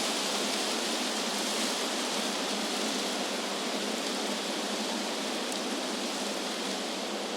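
Wind blowing through trees: a steady, even rushing of leaves with no distinct gusts.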